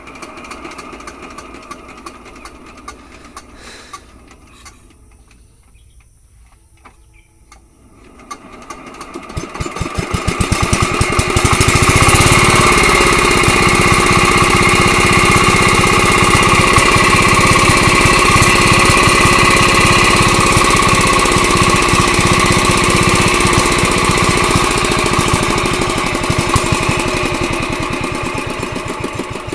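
Diesel engine starting up: a few quiet clicks at first, then about eight seconds in its rapid firing beat builds over a few seconds to a steady, loud run, easing slightly near the end.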